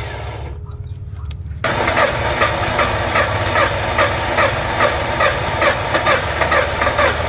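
Ford Expedition engine running with a steady low rumble; after about a second and a half a regular ticking comes in, about two to three times a second. The engine is running on fuel pressure that is present but weak.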